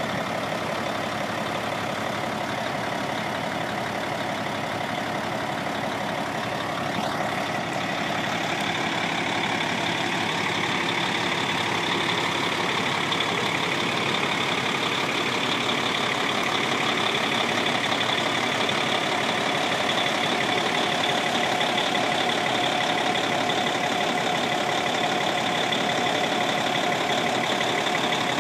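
Caterpillar diesel engine of a 1996 Ford B750 truck idling steadily, with a faint rising whine about seven seconds in, after which it gets slightly louder.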